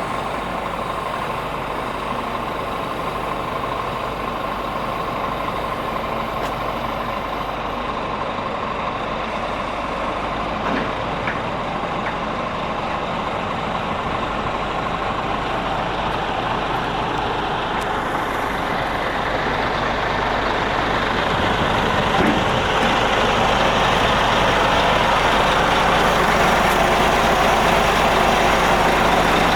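Scania G450 truck's 13-litre straight-six diesel running steadily, growing louder over the last third.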